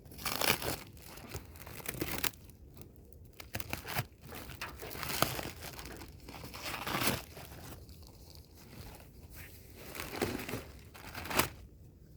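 Packaging being crumpled and torn off a boxed stove: irregular rustling and crinkling bursts with a few sharp snaps.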